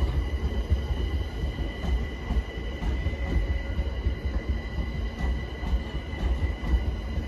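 Class 378 Electrostar electric multiple unit pulling into the platform: a low rumble under a steady high-pitched whine.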